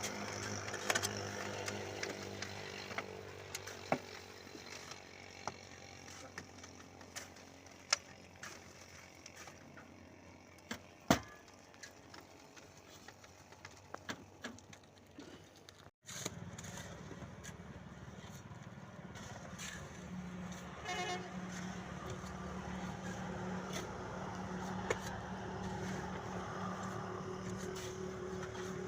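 Truck engine running, with scattered clicks and knocks. The sound cuts off abruptly about halfway, and a steadier engine hum follows.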